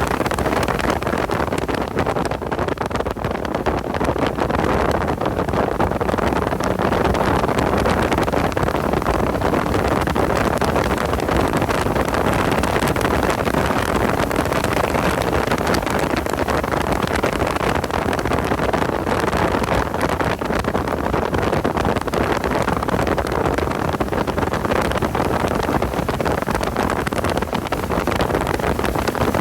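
Porsche 986 Boxster's flat-six engine running under load at track speed, heard from on board, steady and loud, mixed with heavy wind and road noise.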